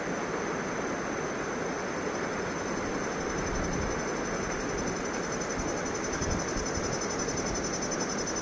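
Steady rushing of a 74-metre waterfall, an even, unbroken roar of falling water. A high, pulsing insect chirr sits above it and grows louder near the end.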